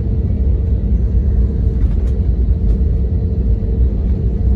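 Airliner engine and cabin noise heard from inside the passenger cabin: a steady low rumble with a constant hum.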